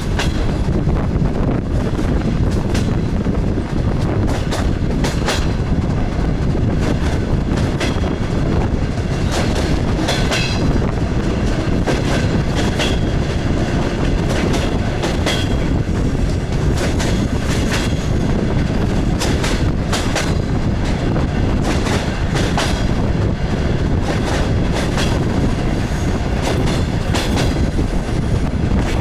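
DR1A diesel railcar train running along the track: a steady low rumble with frequent clicks and knocks of the wheels over rail joints.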